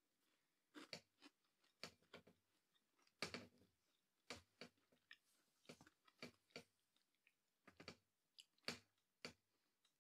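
Quiet, close chewing of a crunchy-crusted maple ginger cookie: short irregular crunches, roughly two a second.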